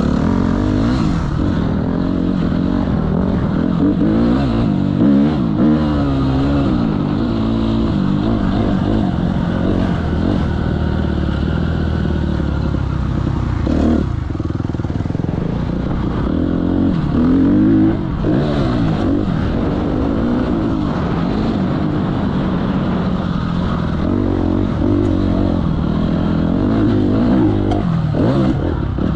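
Motocross dirt bikes riding a track, their engines revving up and down continuously as they accelerate and ease off.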